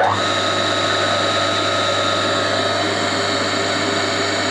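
Old single-phase electric motor with cloth-insulated windings switched on, spinning up to speed within a fraction of a second and then running steadily with a loud mains hum and whine.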